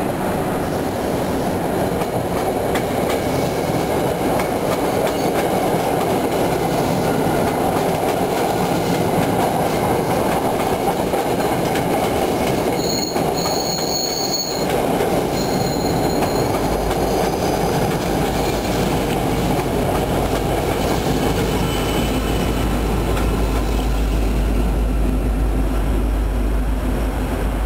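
MBTA commuter rail train rolling past: a steady noise of coaches running over the rails, with high wheel squeals about halfway through. A deep low rumble joins in soon after.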